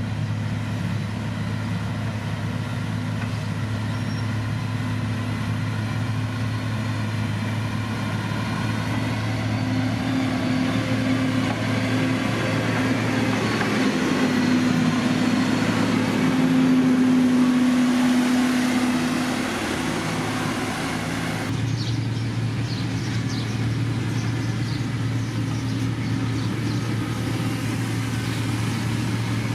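Diesel engine of heavy road-construction machinery running steadily with a low drone. It grows louder and rougher in the middle, then the sound changes abruptly about two-thirds of the way through.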